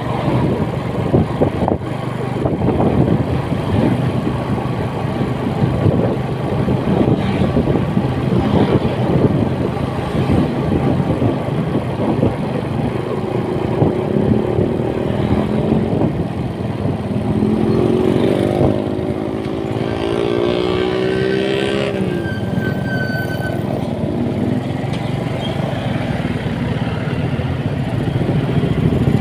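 Motorcycle riding along the road with wind rushing over the microphone. About halfway through, an engine climbs steadily in pitch for several seconds, then drops suddenly.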